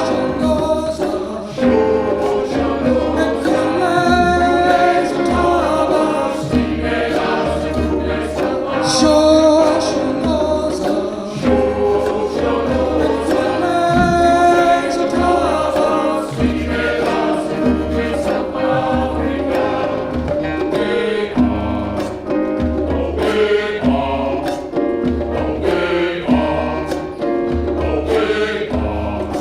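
A community choir singing in several voice parts over a steady low beat.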